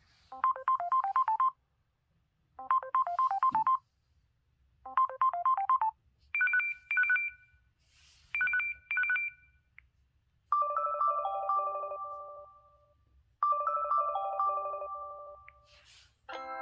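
LG X300 smartphone ringtone and notification tones playing in turn. First comes a fast electronic warble three times, then two short two-note beeps, then twice a falling chime melody that fades out.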